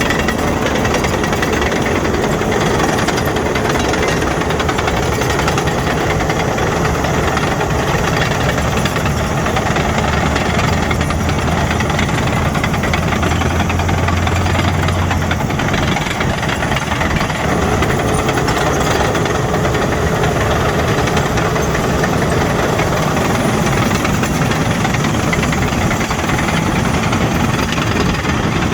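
Caterpillar D6N bulldozer at work: diesel engine running steadily under load with the steel tracks clanking and rattling continuously. The low engine note shifts about halfway through.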